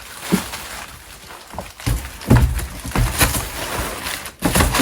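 Boxes and packaging being handled and set down: several knocks and thumps with rustling in between, the loudest about two and three seconds in and again near the end.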